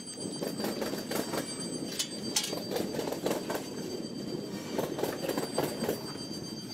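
A train running along the track, rattling and clattering with frequent irregular knocks, and a thin steady high squeal over it.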